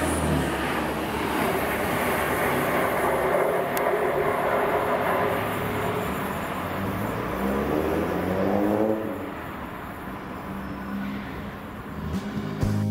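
Chiltern Railways diesel multiple units running through the station: engine and wheel-on-rail noise as one train pulls away and another moves along the platform. The engine note shifts in pitch about two-thirds of the way through, then the train sound fades, and music starts near the end.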